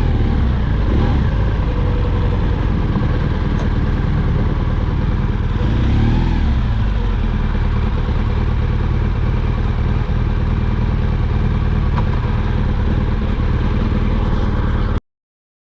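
Motorcycle engine running under way, its pitch rising and falling with the throttle about six seconds in. The sound cuts off suddenly near the end.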